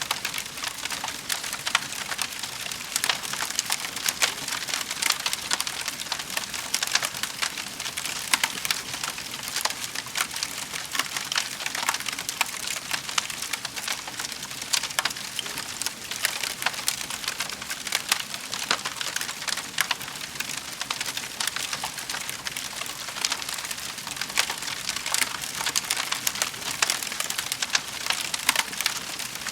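Fire in a fireplace crackling steadily, a dense run of small sharp pops and snaps over a soft hiss.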